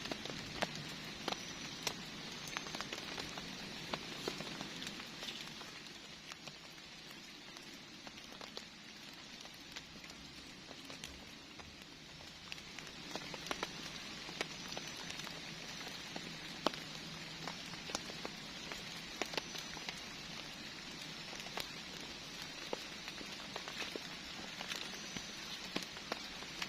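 Steady rain falling, with many scattered sharp drop taps over a continuous hiss; it eases slightly for a few seconds partway through.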